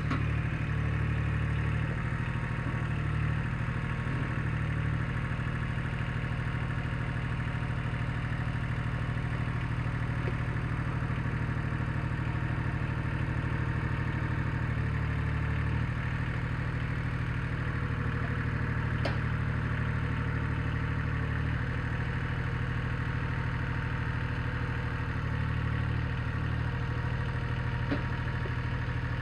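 Satoh Mitsubishi compact tractor engine running steadily under light load, its note shifting slightly a few times as the tractor works a small disc through the ground.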